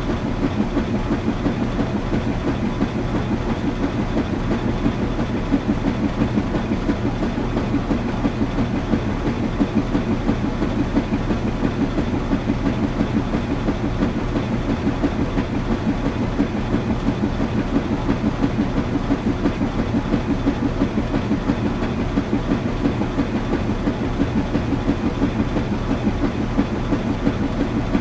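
Washing machine running: a steady low hum with a quick, even, rhythmic churning pulse.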